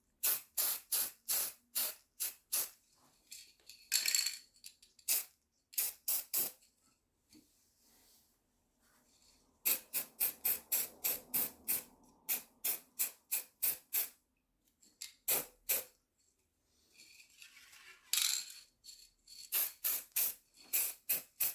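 Aerosol can of chrome spray paint being shaken in quick runs, its mixing ball rattling about three or four times a second, with short hisses of spray from the nozzle about four seconds in and again near the end.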